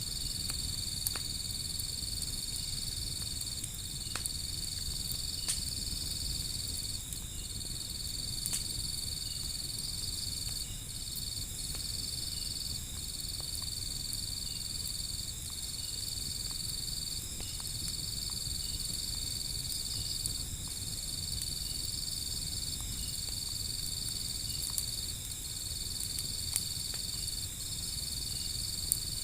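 A fire burning, with a handful of sharp crackles and pops over a low rumble. A steady high insect trill runs through it, breaking off briefly about every two seconds.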